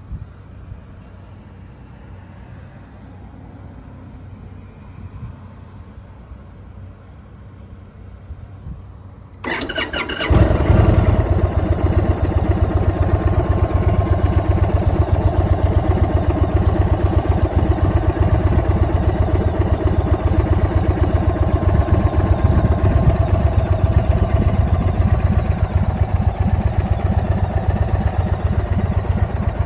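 2023 Indian Super Chief's air-cooled V-twin engine cranked by its starter and catching about nine and a half seconds in, then idling steadily and loudly with a rapid low beat. Before that there is only a faint low background rumble.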